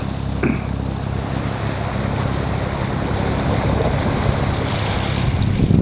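Sailboat's auxiliary engine running steadily under way, a low hum, with water rushing past the hull.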